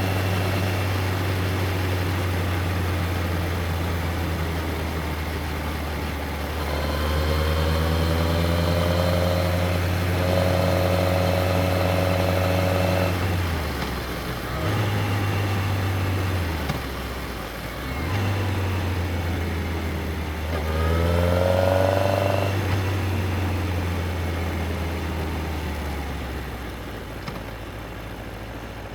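Yamaha XJR1300's air-cooled inline-four engine heard from the rider's seat while riding, running steadily, then revving up with rising pitch twice, about a third of the way in and again past two-thirds. There are brief drops in between as the throttle is closed, and the engine eases off near the end.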